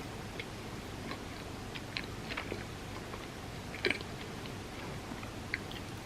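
Close-miked chewing of soft food, with scattered short wet mouth clicks over a steady low hum, and a sharper double click about two-thirds of the way through.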